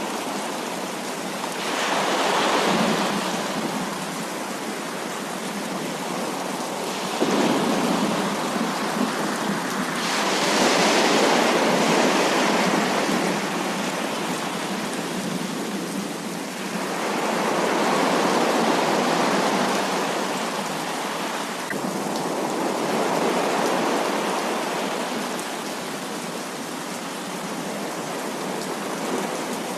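Heavy rain falling steadily, swelling louder in waves several times, one surge starting abruptly about a third of the way in.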